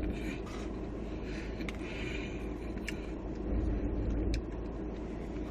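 Quiet eating sounds, with a few faint clicks and light crunching from the nachos, over a steady low background rumble.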